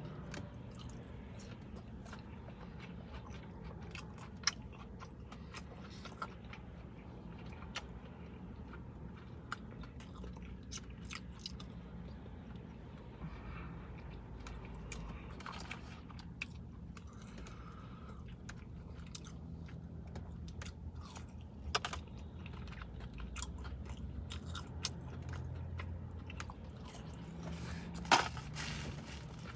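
Close-up chewing of a crispy fried chicken nugget, with small crunches and mouth clicks. A steady low hum runs underneath, and a few sharper clicks stand out, the loudest near the end.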